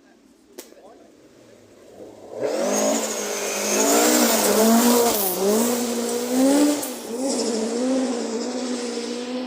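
Rally car engine revving hard at full stage speed, its pitch rising and dipping again and again as the driver works the throttle and gears. It comes in suddenly about two seconds in, after a short quiet stretch with one sharp click.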